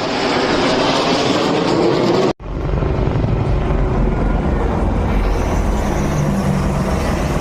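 Loud noise of jet aircraft flying past overhead. The sound breaks off abruptly about two seconds in, then carries on as a deeper, lower rumble.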